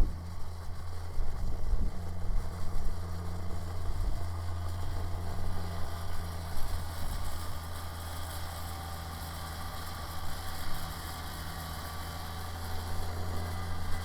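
Kubota BX sub-compact tractor's diesel engine running steadily, driving a rear-mounted snow blower, with an uneven low rumble over the steady engine note.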